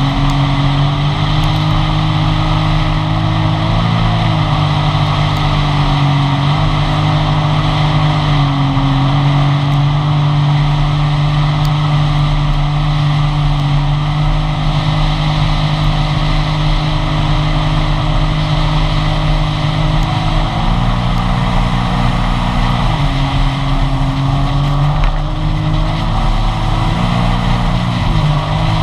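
Sea-Doo GTI jet ski engine running steadily under way. Its pitch eases up and down a few times with throttle changes, over a steady rushing noise.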